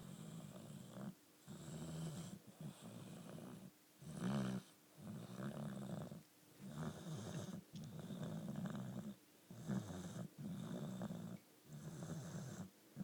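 Boxer dog snoring in its sleep: a rasping, buzzing snore on each breath, about ten in a row with short pauses between.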